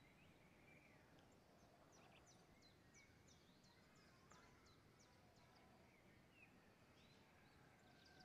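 Near silence with faint birds chirping: a run of quick, high, falling chirps about two seconds in, and another quick series near the end.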